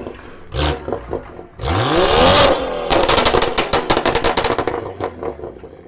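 A car engine revved hard, its pitch climbing for about a second, then a rapid string of exhaust crackles and pops for about two seconds as the revs drop, typical of a loud aftermarket exhaust and crackle map.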